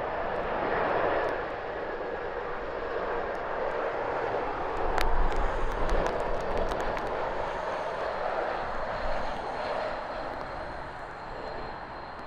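Airbus A220 jet airliner's engines on its landing, a steady rushing jet noise that swells louder about five seconds in, mixed with rain and wind noise.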